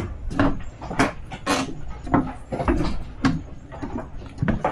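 Footsteps clunking on a boat's deck: a quick, uneven run of knocks, about two a second.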